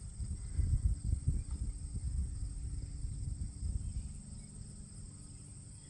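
Field ambience: a steady high-pitched insect chorus, such as crickets, over a low, uneven rumble that swells during the first few seconds and then fades.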